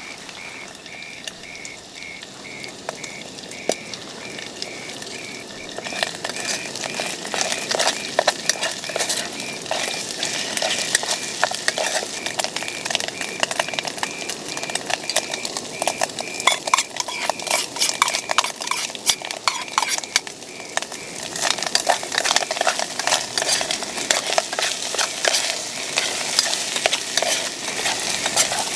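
Food sizzling as it is stir-fried in a pan, with a utensil scraping and clicking against the pan; the sizzling grows much louder about six seconds in.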